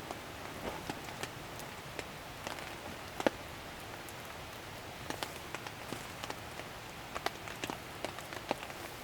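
Steady rain hissing, with single raindrops ticking sharply and irregularly onto a surface; one drop about three seconds in is louder than the rest.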